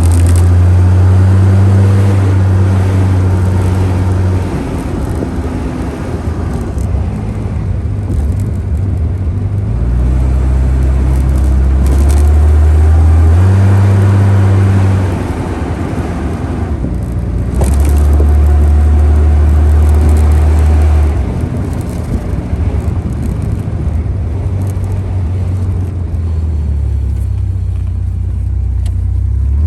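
Panther J72's 4.2-litre DOHC straight-six running while driving on the road: a deep steady engine drone that swells in louder stretches and eases between them, its pitch stepping up and down.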